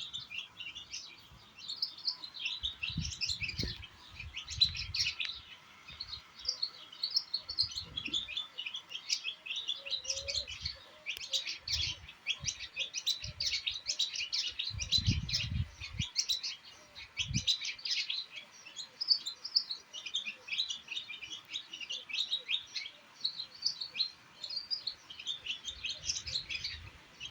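Many small birds chirping and twittering together in a dense, continuous chatter of short high chirps. A few brief low rumbles come and go underneath.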